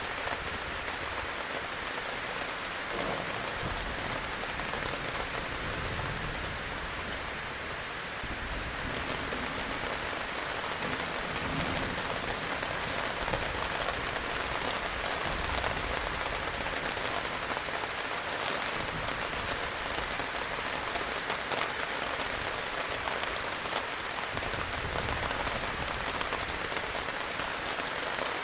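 Steady heavy rain, a dense patter of drops striking a surface.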